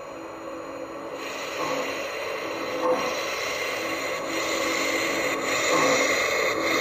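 MTH Dreyfuss Hudson model steam locomotive's Proto-Sound 2 sound system playing steam chuffing as the engine pulls away, growing louder as it picks up speed. The sound comes through a speaker in a homemade balsa-wood enclosure, built to give deeper bass.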